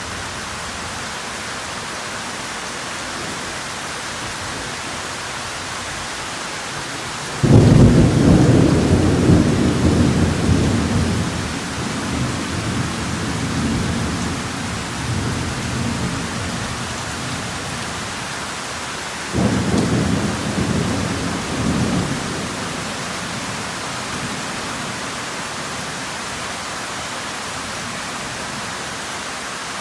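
Heavy rain falling steadily, with two claps of thunder: a loud one that starts suddenly about a quarter of the way in and rumbles away over several seconds, and a weaker one a little past the middle.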